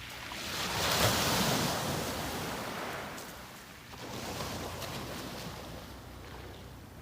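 Waves breaking on a beach: the surf swells and crashes about a second in, washes back, and a smaller wave breaks about four seconds in, with a low rumble of the sea underneath.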